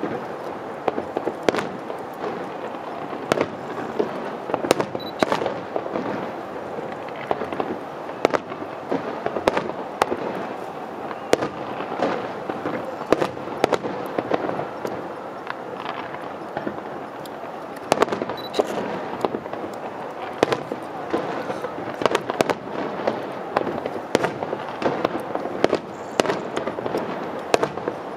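Fireworks display: aerial shells bursting one after another in sharp, irregular bangs, over a continuous dense crackle and rumble from many shells and ground effects going off together.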